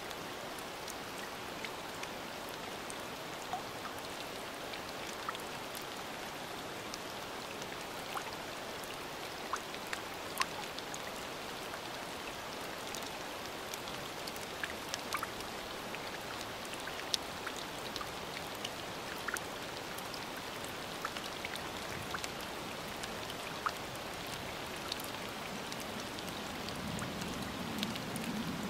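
Rain falling on a lake's surface: a steady hiss with many separate drop ticks scattered through it. A low steady sound joins in near the end.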